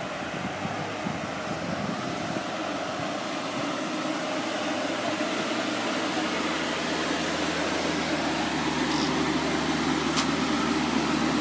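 A car engine running steadily with a low hum, growing gradually louder.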